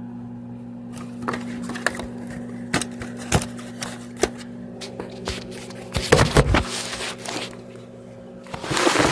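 Microwave oven running with a steady hum as it heats a bowl of cereal. Scattered clicks and knocks sound over it, with two louder scuffing noises about six seconds in and near the end.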